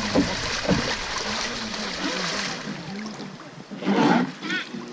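River water rushing and splashing around the riverboat as it runs the rapids, easing off about three seconds in, with faint voices underneath. A brief loud shout-like voice cuts in near the end.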